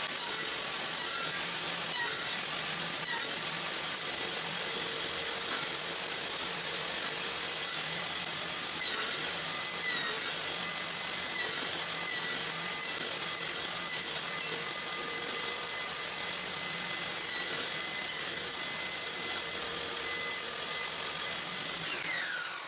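Table saw running with a single blade, cutting finger-joint slots in plywood; its steady whine dips briefly a few times as the blade bites into the wood. Near the end the whine falls away as the saw is switched off.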